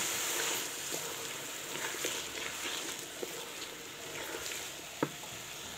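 Diced tinda (Indian round gourd) frying in hot oil in a pan: a steady sizzle, with a few light clicks as it is stirred.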